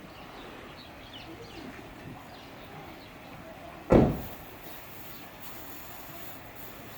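A single dull thump about four seconds in, sharp at the start and dying away quickly, over low steady background noise.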